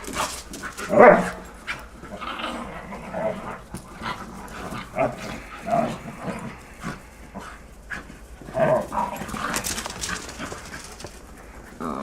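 Dogs in rough play, growling and giving short yelps every second or two, the loudest about a second in.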